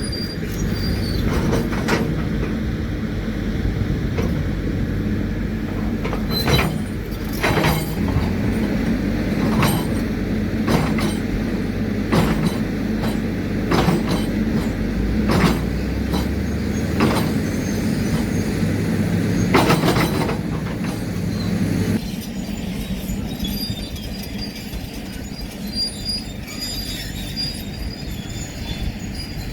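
CAT D7 crawler bulldozer working: the diesel engine drones steadily while the steel tracks squeal and clank, a sharp clank every second or so. About two-thirds of the way through, the clanking stops and the sound drops a little, leaving the engine and a thin squeal.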